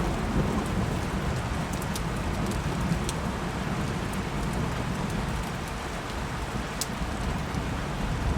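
Steady rain falling, with a low thunder rumble underneath and a few sharp drip ticks here and there.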